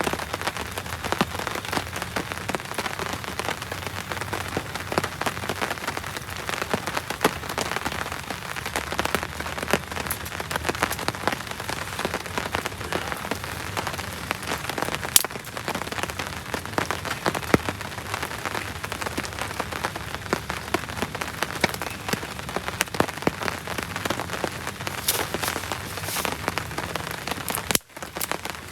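Heavy rain falling steadily, a dense patter of individual drops striking a surface, briefly cut off for an instant near the end.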